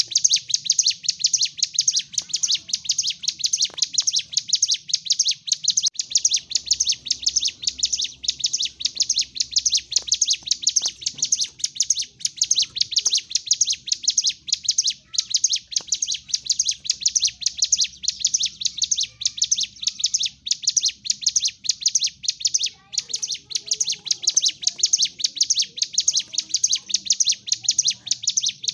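Ciblek gunung, a prinia, singing an unbroken, loud song of very rapid high chirps in its aggressive 'fighting' form (gacor tarung). The song cuts off abruptly at the end.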